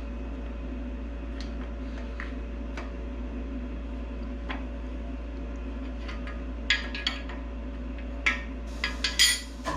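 Light metallic clicks and clinks of a cam bearing installer's expandable sleeve and wrench being handled and tightened. A few come early, and a cluster comes in the last three seconds, over a steady low hum.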